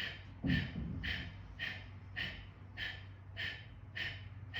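Kapalabhati breathing: short, forceful exhalations pushed out through the nose by the abdomen, with passive inhales between. There are about eight sharp puffs, evenly spaced at a little under two per second.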